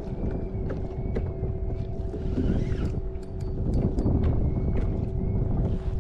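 Wind buffeting the microphone and water moving against a kayak hull, with a faint steady hum and scattered light clicks and knocks.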